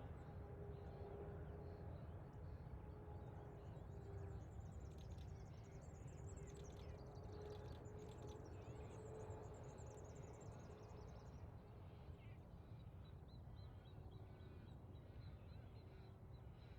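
Faint outdoor ambience: small birds chirping in a busy run of high calls for several seconds, with lighter chirps near the end, over a steady low rumble and a steady hum.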